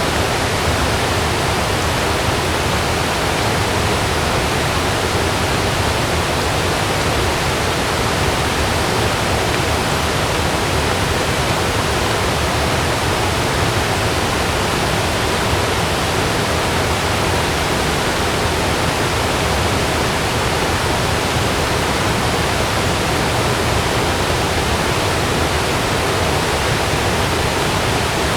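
Heavy rain falling steadily on a camping tent, an even, unbroken rush of noise.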